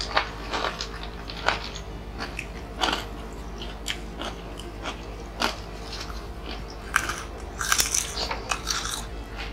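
Crunching and chewing of crispy puffed snack crackers eaten by hand, with irregular sharp crunches and a quick flurry of them near the end.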